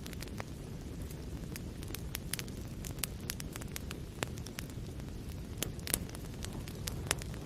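Wood fire burning in a fireplace: a steady low rumble of flame with irregular sharp crackles and pops, a couple of louder pops near the end.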